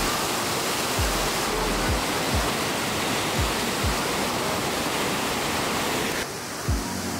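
Upper Düden waterfall rushing, a steady dense water noise that drops away abruptly about six seconds in.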